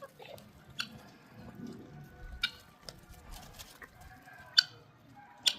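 Farmyard animal sounds with a few sharp, short clicks, the loudest about four and a half seconds in.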